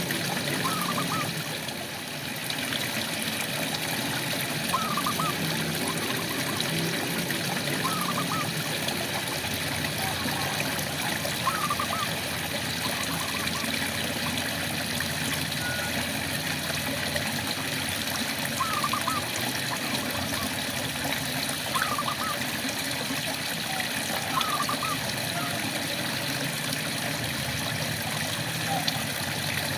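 Steady rain falling, with a frog giving short rising calls every few seconds.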